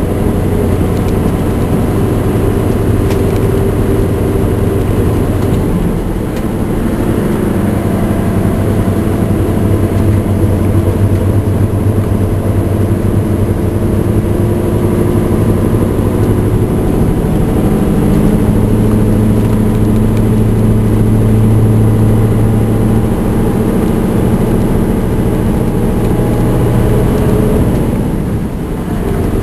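Scania R580's V8 diesel engine pulling hard under load up a steep climb, hauling about 41 tonnes. Its steady note dips briefly about six seconds in and again near the end.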